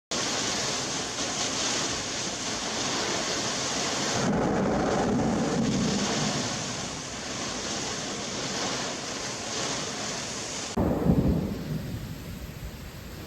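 Thunderstorm: steady heavy rain and wind hiss with thunder rumbling. About eleven seconds in comes a sudden loud thunderclap from a close lightning strike, which then rumbles away.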